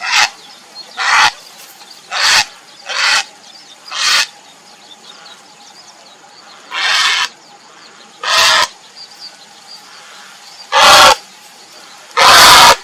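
Grey heron giving a series of about nine short, harsh croaking calls at uneven intervals, the last two the loudest; the uploader presents them as calls to a mate.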